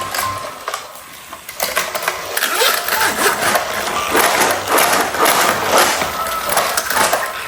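Plastic toy trains and track clattering and rattling: a dense run of small irregular clicks that starts about one and a half seconds in and carries on.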